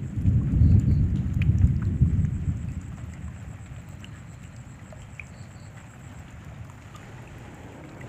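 Rain falling steadily, with a low rumble of thunder that dies away about three seconds in, leaving the rain hiss and scattered drips.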